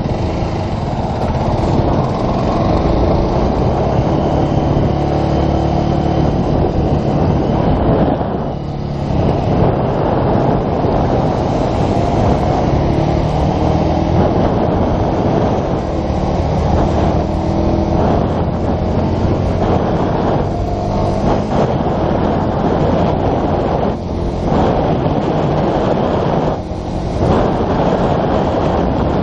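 Yamaha YZF-R125's 125 cc single-cylinder engine running while the bike is ridden, with wind noise; the engine note shifts in pitch and the sound briefly dips about four times.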